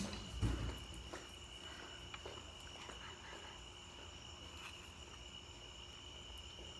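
Steady high-pitched cricket trill, with a soft low thump about half a second in and a few faint handling clicks.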